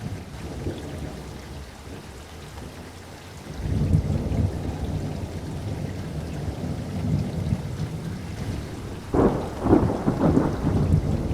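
Steady rain with thunder. A low, rolling rumble swells about three and a half seconds in, and louder, sharper thunderclaps break around nine seconds in.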